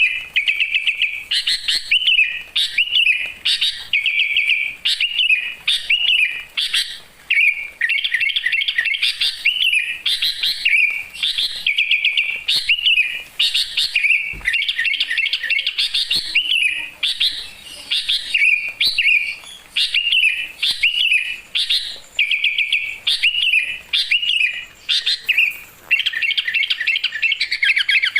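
Songbird singing a fast, near-continuous stream of high chirps and trills in short repeated phrases.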